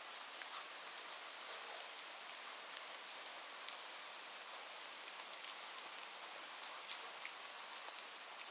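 Steady rain falling, an even hiss with many individual drops ticking sharply here and there.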